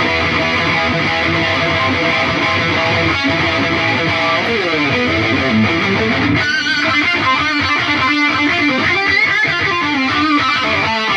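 Electric guitar played through an Atomic AmpliFire modeling pedal and heard through cheap computer speakers. It plays held chords at first, a falling run of notes about halfway through, then quick single-note lead lines with wavering bends and vibrato.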